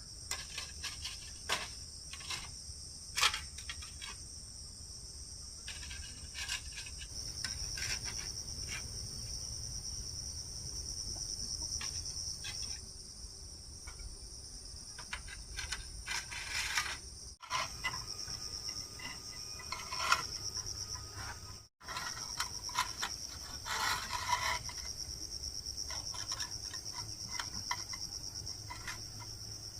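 Steady high-pitched chorus of forest insects, crickets or cicadas, with scattered short clicks, knocks and scrapes of handwork.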